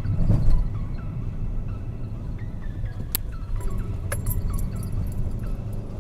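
Low, steady road and engine rumble of a 2012 Fiat Punto 1.2 heard inside the cabin while driving, swelling briefly near the start, with two sharp clicks about three and four seconds in.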